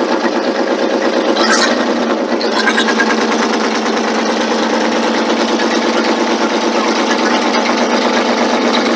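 Ford Mustang engine running steadily on its first start, with a rapid, even pulsing beat. It is cold and still building oil pressure very slowly while its lifters pump up.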